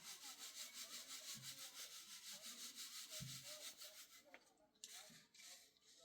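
Fast, even rubbing or scraping strokes by hand, several a second, with a short pause about four seconds in before they start again.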